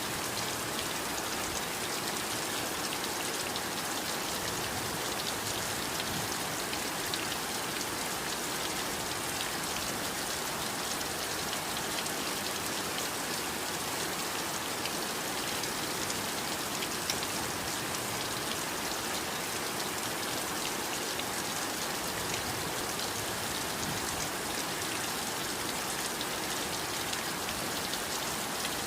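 Heavy rain falling steadily, a dense even hiss with many small drop ticks on a surface.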